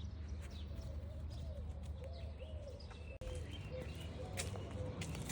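Birds calling: a run of short, repeated low cooing notes with scattered higher chirps over them, broken by a brief gap about three seconds in.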